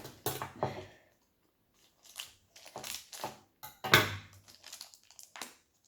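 Plastic toy packaging being handled and opened by hand: irregular crinkles and crunches, with a short pause about a second in and a louder crunch near four seconds in.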